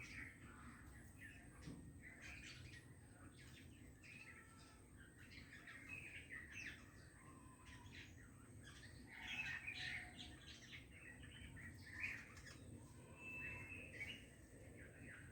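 Faint birdsong: many short chirps and twittering calls, coming in irregular bursts throughout.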